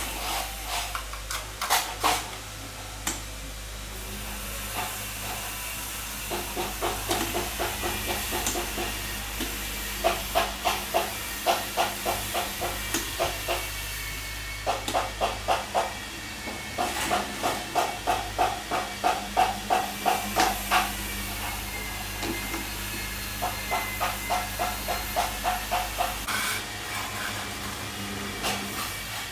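Runs of quick, rhythmic scraping or rubbing strokes, several a second, starting and stopping in bursts, over a steady low hum.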